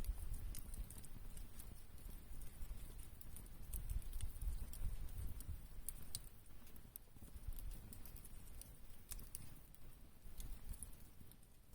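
Campfire crackling: irregular sharp pops and snaps from burning wood over a low rumble.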